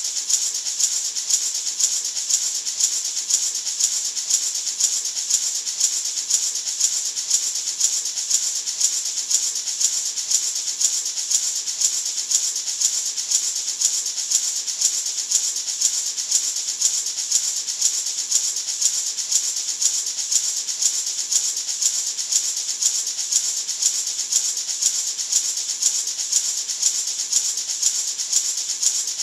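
Natural gourd maraca shaken steadily, about two shakes a second: a continuous rattle of seeds, hissy and high, with an even accent on each shake.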